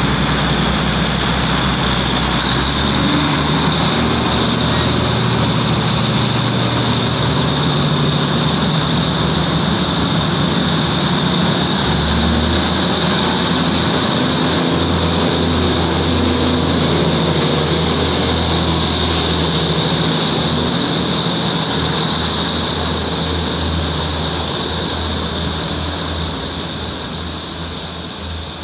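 Passenger train pulling out of the station and running past the platform: a steady rumble of engines and wheels on the rails, with a constant high whine over it. The sound fades over the last several seconds as the train leaves.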